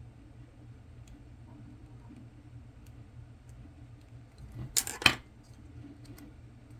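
Small hand tools working on a small electronic part: a few faint clicks, then a short, sharp double scrape-and-snap about five seconds in, over a low steady hum.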